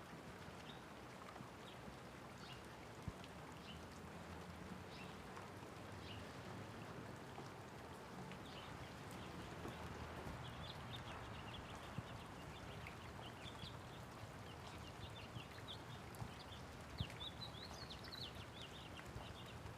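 Light rain falling steadily, with small birds chirping over it, the chirps growing busier in the second half. A few sharp ticks stand out now and then.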